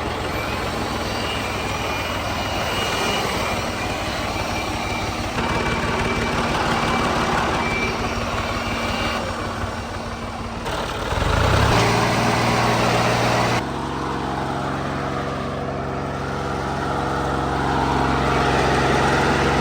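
Diesel engine of farm harvest machinery running steadily under load. About eleven seconds in, the engine note rises and settles into a stronger, steadier low drone, and the sound changes abruptly several times.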